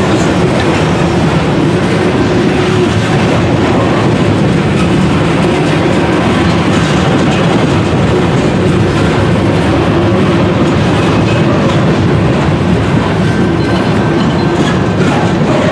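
Covered hopper cars of a grain train rolling past close by: a loud, steady rumble of steel wheels on the rails.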